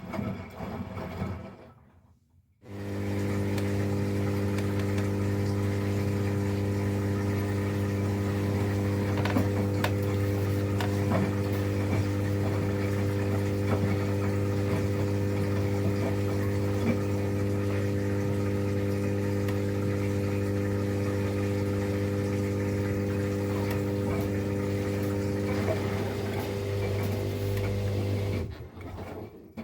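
Miele Professional PW 6065 washing machine's drain pump switching on about three seconds in and running with a steady hum, pumping out the rinse water before the second interim spin; it stops shortly before the end.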